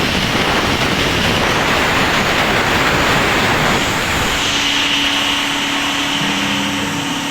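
CNC machine running with a loud, steady rushing noise. About four seconds in the rush eases a little and steady humming tones come through.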